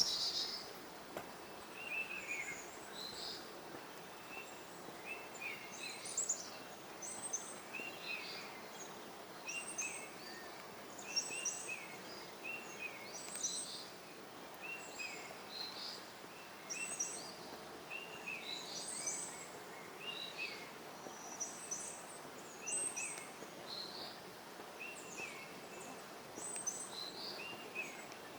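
Forest birds calling over and over in short chirps and whistled notes, about one a second, some low and some high, over a steady background hiss.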